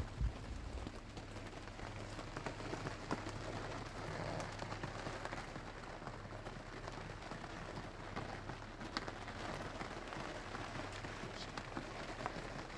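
Steady rain falling, with many small drop ticks scattered through it and a steady low hum underneath.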